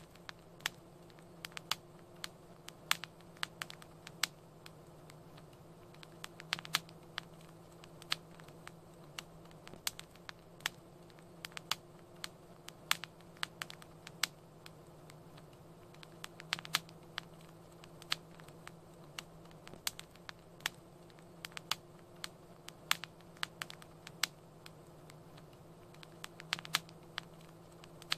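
Wood fire crackling in a fireplace: irregular sharp pops and snaps, several a second, over a soft steady hiss with a faint low hum underneath.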